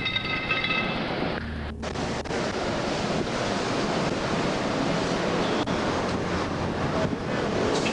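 A steady rushing roar of wind buffeting the microphone. Over the first second a steady tone with several pitches sounds, then stops, and a brief dropout follows.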